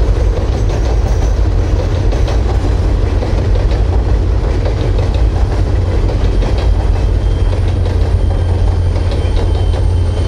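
Train on the Cumberland Mine Railroad rolling past close by, a loud, steady, heavy rumble of the cars on the rails.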